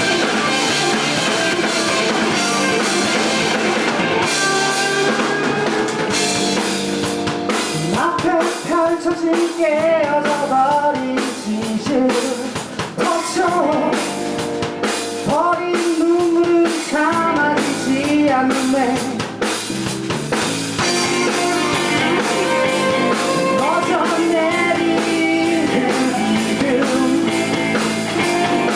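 Live rock band playing with drums and guitar, and a singer's voice through the middle of the stretch.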